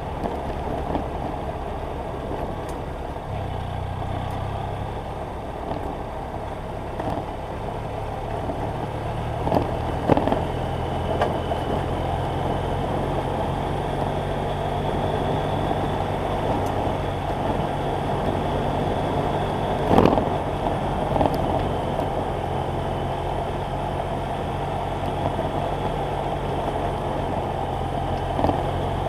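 BMW F800GS Adventure motorcycle's parallel-twin engine running steadily under way, its pitch stepping up a few seconds in and again about ten seconds in. Sharp knocks come near ten seconds and again about twenty seconds in.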